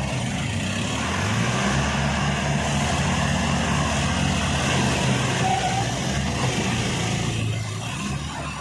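Tractor diesel engine revved up and held at high revs under heavy load, straining to pull a tractor stuck in mud. Its pitch rises about a second in and falls away near the end.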